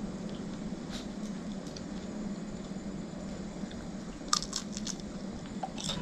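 Crunchy bites and chewing of crisp deep-fried razorfish (tensu), with a quick cluster of sharp crunches about four seconds in and more near the end, over a steady low room hum.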